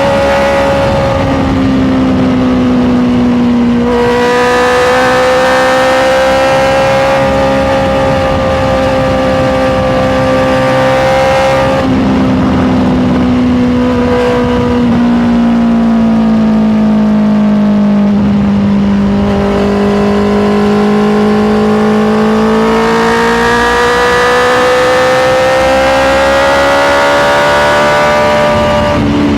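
Honda CBR650R's inline four-cylinder engine running under way. Its note rises and falls slowly with the throttle, with a few abrupt steps in pitch at gear changes.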